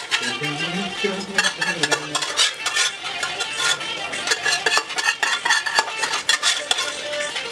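A spoon stirring food in a cooking pot, scraping and clinking against the pot in quick, irregular strokes throughout.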